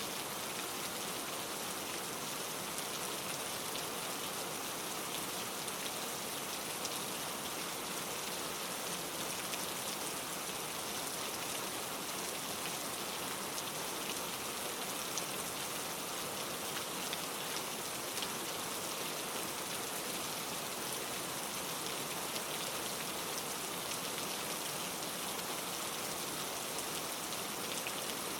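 Steady rain falling in a forest, an even hiss of many drops with fine patter and no change in intensity.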